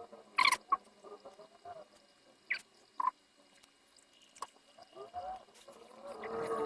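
A few sharp clicks and taps of small tools at a phone-repair bench during the swap of an iPhone 6S charging IC, with faint, wavering chirps in the background.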